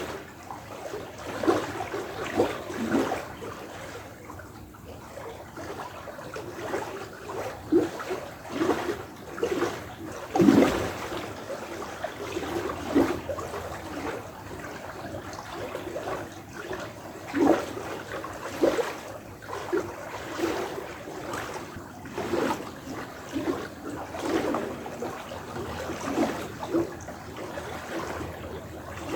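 Small stream of flowing water trickling and gurgling, with irregular hollow, resonant plops and bubbling.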